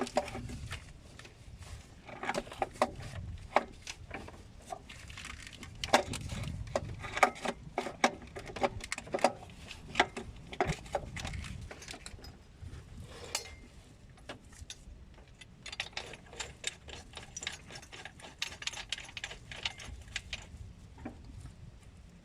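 Metal hand tools and parts clinking and rattling in irregular clicks, with a quicker run of clicks about fifteen to twenty seconds in.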